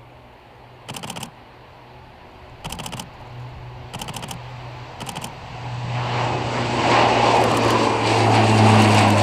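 Lockheed Martin C-130 Hercules turboprops droning with a steady low hum, swelling to a loud engine noise from about six seconds in as the aircraft powers up for takeoff. Four short bursts of rapid clicking, a camera shutter firing in continuous mode, come in the first five seconds.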